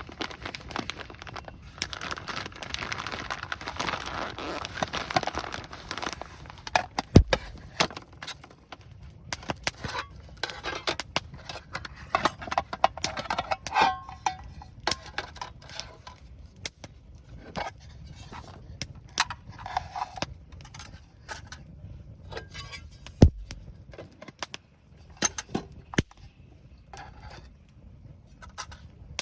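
Camp cooking being handled: rustling for the first few seconds, then scattered clinks and taps of cookware and utensils, with two sharp knocks about 7 and 23 seconds in.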